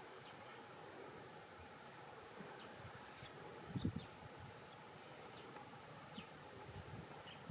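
Faint insect chirping: a high, buzzy trill repeated in short pulses, a little under two a second, with a few brief falling calls over it. A short low rumble comes about halfway through.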